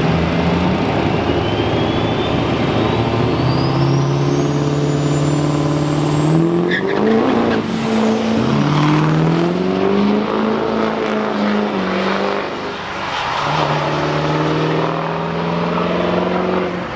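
Drag-racing trucks under hard throttle down the strip. A high whine climbs steadily in pitch over the first seven seconds, then the engine note breaks and swings up and down in pitch before settling back to a steady drone near the end.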